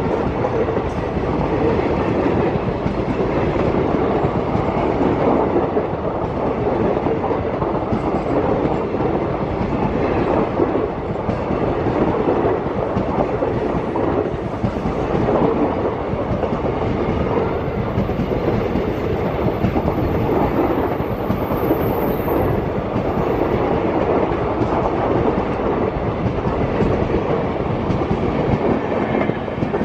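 Passenger train coaches rolling past close by, their wheels running over the rails with a steady, loud rumbling clatter.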